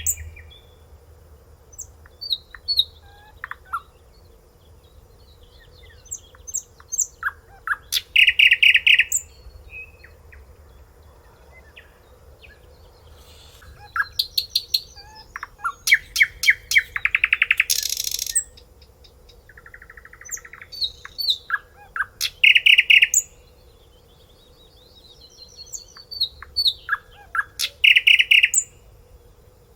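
A finch singing, giving about four song phrases with pauses between. Each phrase is a run of quick notes ending in a fast trill. A faint steady hum lies underneath.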